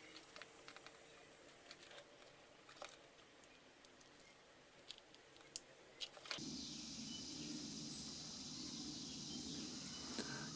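Faint, scattered small clicks and handling noise as foam ends are pressed together with a hot glue gun. About six seconds in, a faint steady background hiss with a low hum comes in and holds.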